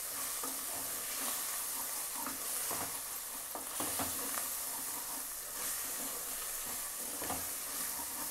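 Cashews, sliced onions and whole spices sizzling in hot oil in an aluminium pot, being fried until lightly golden. A wooden spatula stirs them, scraping and now and then knocking against the pot.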